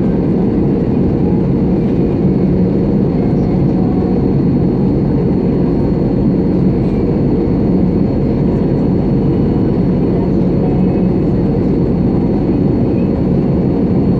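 Steady cabin noise inside an Airbus A320-family airliner in flight: engine and airflow drone with a constant low hum and a faint high whine, unchanging throughout.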